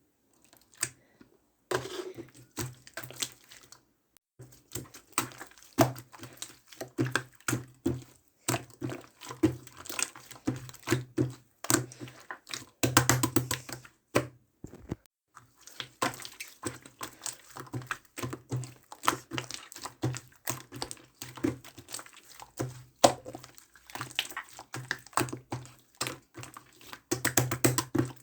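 Slime being kneaded, squeezed and poked by hand: a dense, irregular run of wet clicks, pops and squelches, pausing briefly twice.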